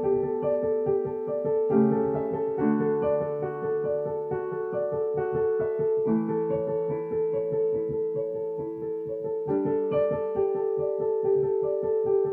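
Piano playing the introduction to a worship song: a steady stream of repeated notes over held chords that change every few seconds.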